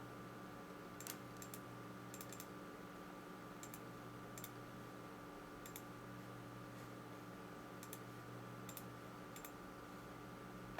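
About a dozen faint, irregularly spaced clicks from a computer being operated, over a steady electrical hum and hiss.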